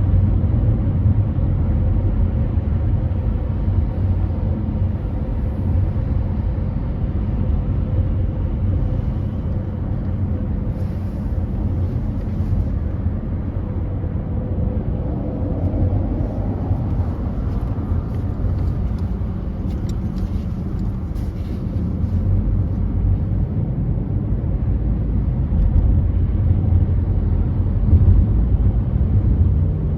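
A car driving at freeway speed: steady low road and engine rumble.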